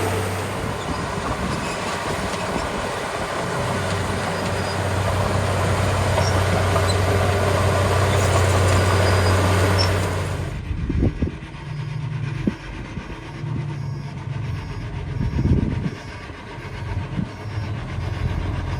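Small crawler bulldozer's diesel engine running hard and steady with a broad mechanical clatter. About ten seconds in, the sound changes abruptly to a quieter, lower engine note broken by several loud knocks.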